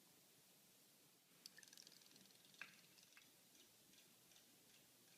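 Near silence with a few faint, short clicks between about one and a half and three seconds in.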